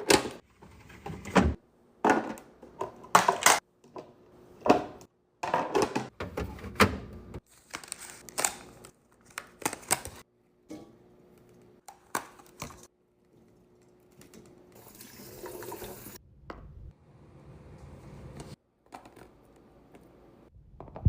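Food containers and packaging handled and set down while restocking a fridge: a run of irregular knocks, taps and clicks, then a few seconds of steady hiss near the end.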